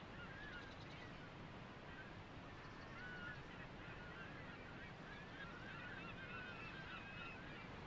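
Birds calling: many short, bending chirps scattered throughout, over a steady low background rumble.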